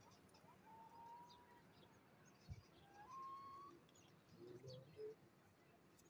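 Faint bird calls: two thin drawn-out whistles, the second rising slightly, then a few short lower calls near the end. A soft bump comes about halfway.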